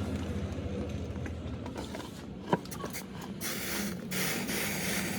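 Mechanical work noises over a steady low hum: a single sharp click about halfway, then a steady hiss like a spray from a little past halfway.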